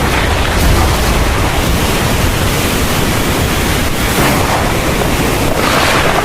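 Heavy rain pouring steadily in a thunderstorm, a dense hiss over a low rumble, swelling briefly about four seconds in and again near the end.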